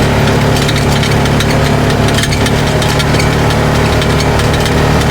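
Polaris RZR 570 side-by-side's single-cylinder engine running steadily at an even cruising speed, with scattered clicks and rattles over the top.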